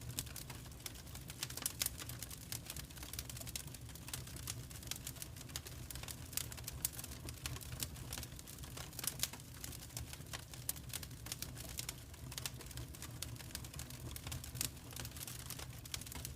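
Wood fire crackling in a fireplace: dense, irregular sharp pops and snaps over a steady low rumble of the burning.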